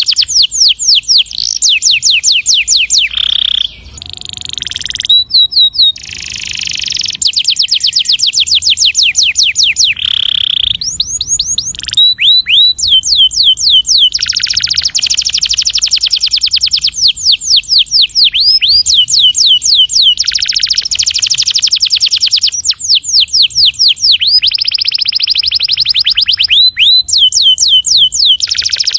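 Domestic canary singing in long, rapid rolling trills of quickly repeated falling notes, with only brief breaks between phrases.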